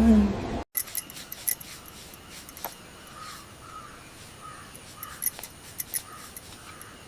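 A bird calling in a run of short, evenly spaced calls, about two a second, over a soft background with scattered faint clicks. Chanted music fades out at the very start.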